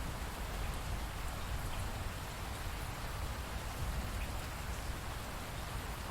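Steady rainfall pattering, a continuous even hiss with a low rumble underneath and occasional faint drop ticks.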